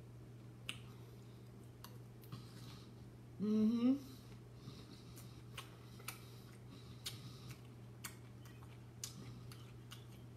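Eating sounds: scattered sharp clicks and mouth smacks of someone chewing a meal, over a low steady hum, with a short rising 'mm' of voice about three and a half seconds in.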